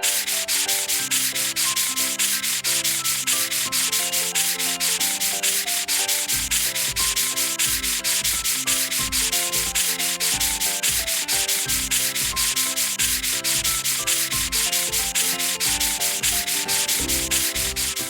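Fast, even rubbing strokes, like scrubbing, about four a second, over instrumental music of held, shifting notes. A low thumping beat comes in about six seconds in.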